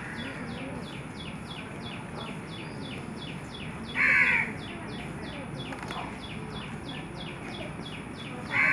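A bird gives two loud, harsh caws, about four seconds in and again near the end. Under them runs a fast, regular high chirping over a steady outdoor background.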